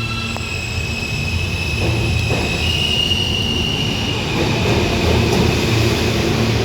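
R160 subway train accelerating: the electric propulsion whines in high tones that step up in pitch, over the rumble of wheels on rail that grows louder.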